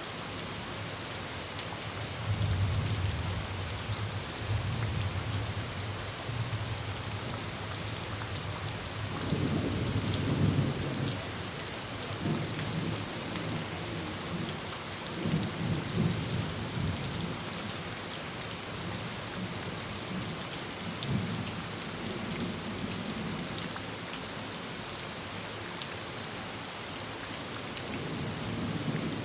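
Heavy rain drumming steadily on a tin roof, with thunder rumbling low several times. The loudest roll comes about a third of the way in.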